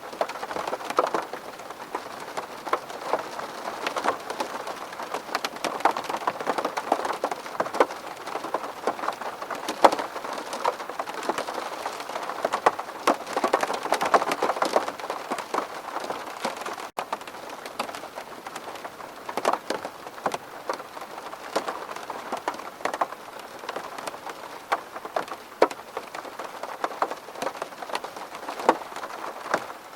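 Steady rain striking a window pane, a dense stream of sharp individual drop hits over a constant wash, with a split-second break a little past halfway.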